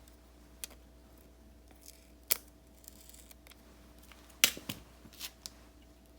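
Scissors snipping paper stickers: a few separate sharp snips with gaps between them, the loudest about four and a half seconds in.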